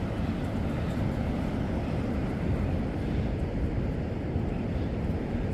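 Steady wind rumbling on the microphone outdoors by the sea.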